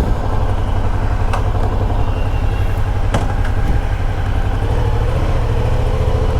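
Adventure motorcycle running, with a steady heavy low rumble of wind on the microphone over the engine.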